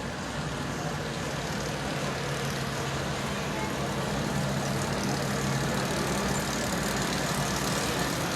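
Locomotive running, a steady low engine hum over a wide rumble that grows gradually louder as it draws closer.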